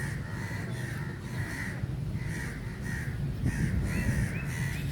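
Birds calling over and over, a string of short calls about two a second, with a few rising notes near the end, over a low rumble.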